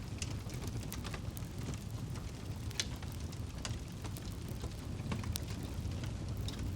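Campfire burning: a steady low rumble of flames with irregular sharp crackles and pops from the burning wood, the loudest pops a little under three seconds in and again past five seconds.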